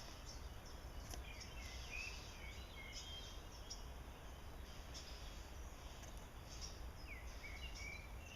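Songbirds chirping in short, scattered whistled notes, some sliding in pitch, over a steady low rumble.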